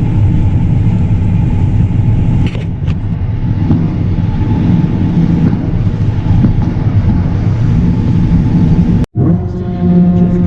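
Vehicle engine running with a steady low rumble for about nine seconds. It cuts off abruptly, and a steady humming drone of level tones begins near the end.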